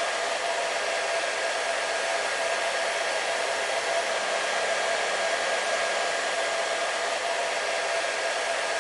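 Hair dryer running steadily and evenly: a constant rush of blown air with a faint, steady hum from the motor underneath.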